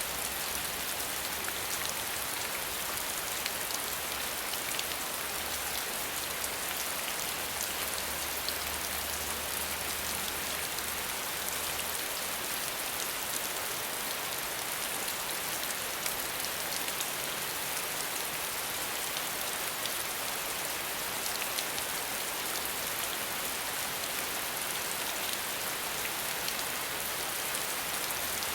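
Steady rain falling with a dense patter of individual drops, without thunder.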